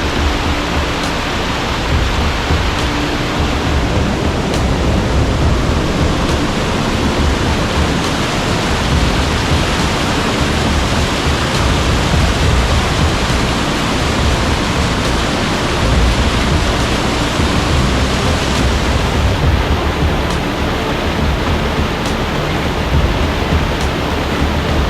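Waterfall on a steep mountain creek, loud and steady, with an unbroken rush of falling water close by.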